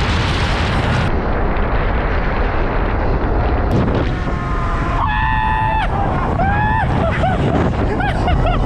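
Wind rushing hard over the microphone on a fast electric dirt bike ride. In the second half, pitched tones rise and fall over the rush.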